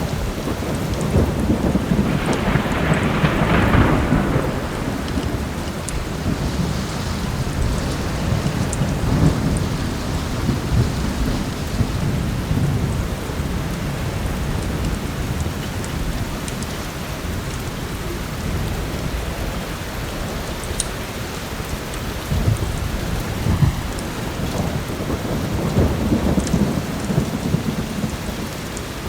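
Steady heavy rain with rolling thunder; a rumble swells a couple of seconds in, another around ten seconds, and again near the end. Sparse faint pops of a crackling fireplace sound over the rain.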